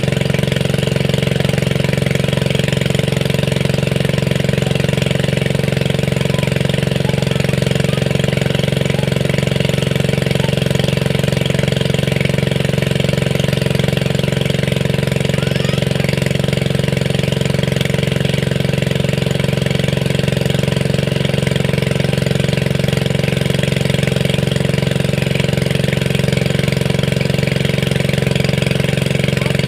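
A small engine running steadily at a constant speed, with a strong, even low hum.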